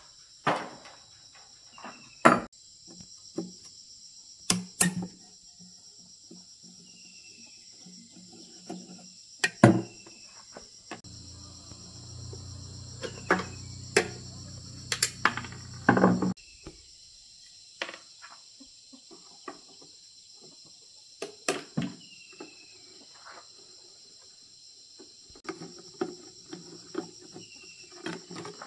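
Steady high insect chorus, with scattered sharp knocks and clinks of work on metal parts. A low machine hum starts about eleven seconds in and cuts off suddenly about five seconds later.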